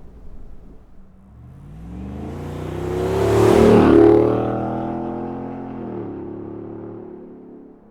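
A 6.2-litre V8 through an AWE 0FG true-dual catback exhaust accelerating, its note rising and growing loud about halfway through with rushing noise as it passes, then easing off near six seconds in and fading away.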